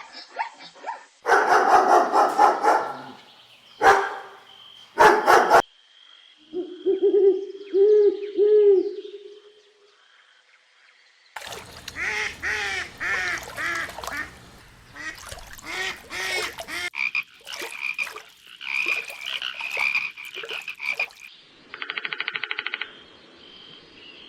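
A string of short animal sound clips, mostly frogs croaking: repeated arching croaks, then a chorus of overlapping calls, and rapid trilling near the end. A loud noisy burst and two sharp clicks come in the first few seconds.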